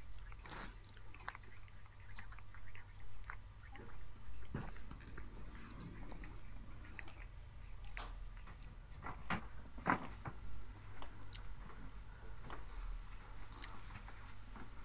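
British Shorthair cat chewing and crunching dry cat treats, a run of irregular crunches.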